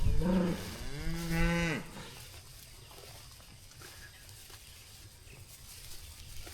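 A beef cow mooing once, a long call lasting nearly two seconds that ends about two seconds in.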